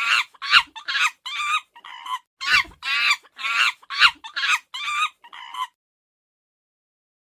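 Chickens clucking and squawking in a rapid run of short, pitched calls that cut off abruptly about six seconds in.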